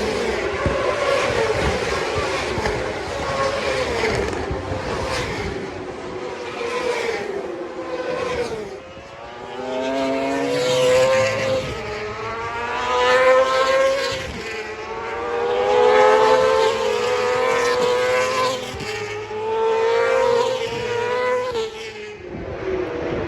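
Superbike racing motorcycles running at full throttle. The engine note first holds and slowly falls, then from about the middle it rises again and again in overlapping sweeps as several bikes accelerate up through the gears past one another.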